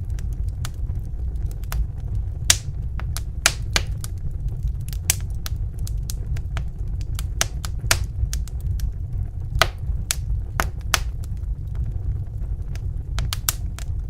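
Wood fire crackling in a fireplace: irregular sharp pops and snaps, some in quick clusters, over a steady low rumble of the flames.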